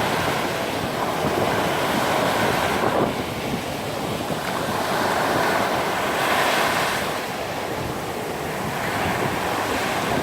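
Black Sea waves breaking and washing up a sandy beach, a steady surf rising and falling in swells, with wind buffeting the microphone.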